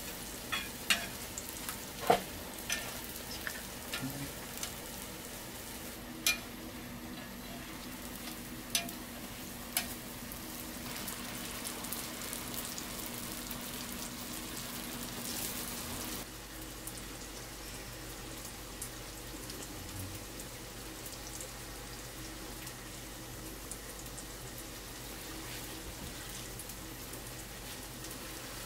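Hotteok (sweet filled pancakes) frying in a shallow tray of oil: a steady sizzle, with a handful of sharp pops during roughly the first ten seconds.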